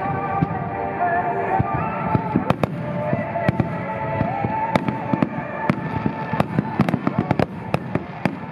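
Aerial firework shells bursting in quick, irregular succession, several sharp bangs a second and thickest in the second half, with music playing underneath.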